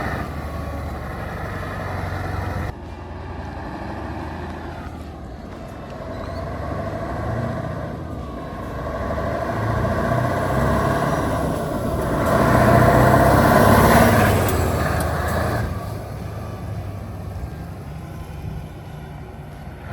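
Scania semi truck's diesel engine running. It drops suddenly in level about three seconds in, then swells louder around twelve seconds in and eases off again near sixteen seconds.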